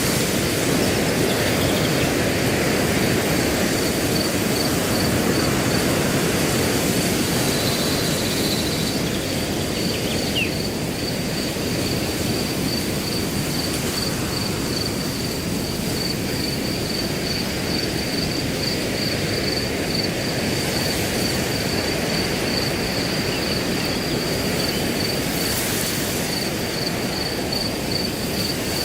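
Wind blowing through grass in a steady low rush, with a cricket chirping in an even, rapid pulse throughout. A short faint high note sounds about ten seconds in.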